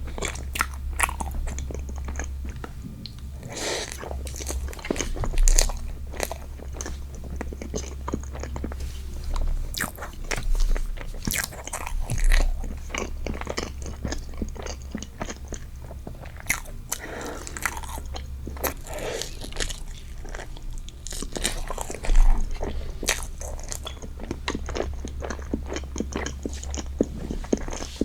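Close-miked eating sounds: a person biting and chewing strawberry desserts, with many small crunchy, wet clicks and mouth noises.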